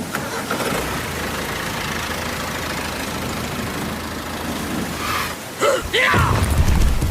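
A mini tractor's motor running with a steady low hum. About five and a half seconds in, a louder sound with falling pitch sweeps breaks in over it.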